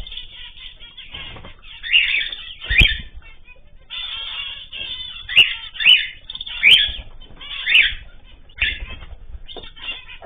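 Small cage birds calling in an aviary: a run of short, sharp chirps about once a second, with some wing flapping.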